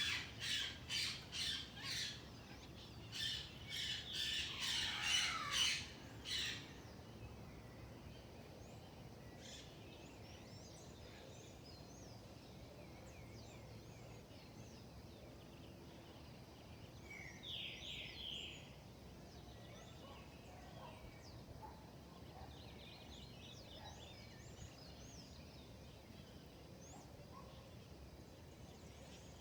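Wild birds calling: a run of loud, harsh squawks about three a second for the first two seconds, a second loud run of squawks ending about six seconds in, then only faint scattered chirps, with one short louder call near the middle.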